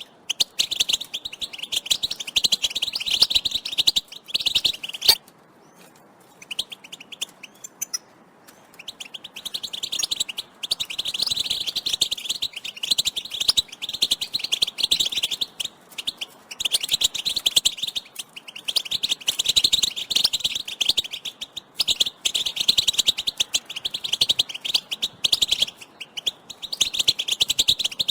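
Several female European goldfinches calling together in rapid, dense chirps and twitters: the contact and excitement calls used to stir male goldfinches into song. The chirping dies down for a few seconds about five seconds in, then picks up again.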